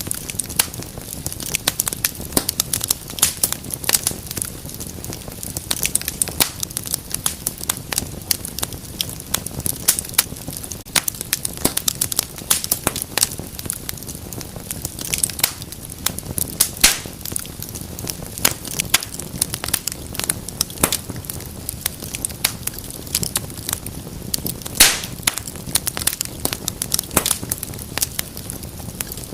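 Wood fire burning in a fireplace, crackling steadily with many irregular sharp pops over a low rumble of flame; one louder pop near the end.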